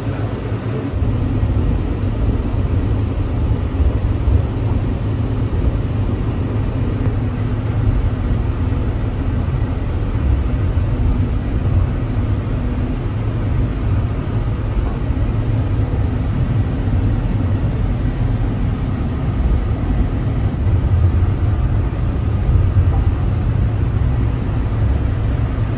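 Steady low rumble and hum heard from inside a cable-pulled airport people-mover train as it runs along its elevated guideway, swelling slightly near the end.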